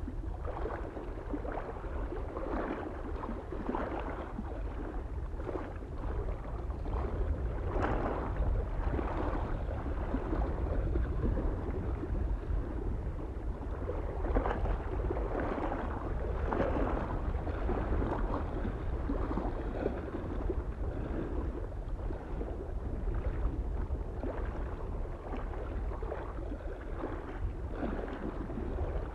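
Small waves lapping and splashing against a lake shore in irregular washes every second or two, over a steady low wind rumble.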